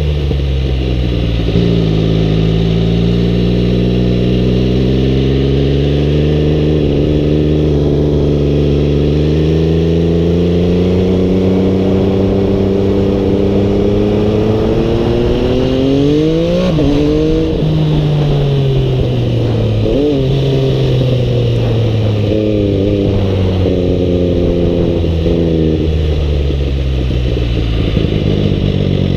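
MV Agusta Dragster 800RR's 800 cc inline-three with a QD aftermarket exhaust, running loud. Its pitch climbs slowly for about fifteen seconds, breaks sharply twice, then falls back in a few steps to a steady low note near the end.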